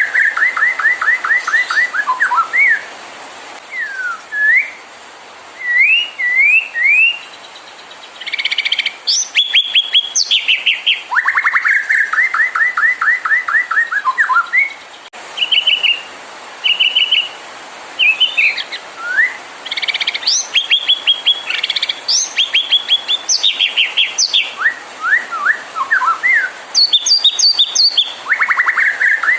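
White-rumped shama singing a loud, varied song: rapid trills of repeated notes, upslurred whistles and chattering phrases, with short pauses between phrases.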